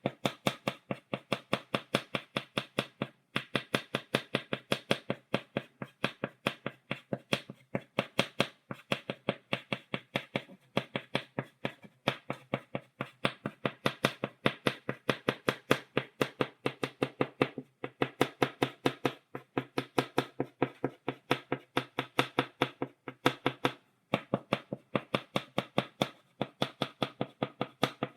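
Chalk tapping rapidly on a blackboard while stippling dots, several sharp taps a second with a few brief pauses.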